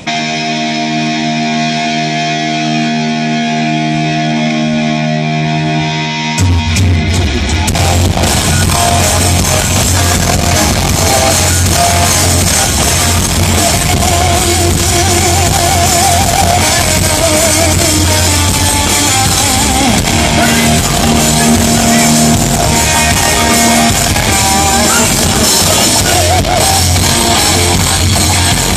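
Live rock band at a sound check: a sustained chord is held for about six seconds, then the full band comes in with drums, bass and electric guitar and plays on loudly.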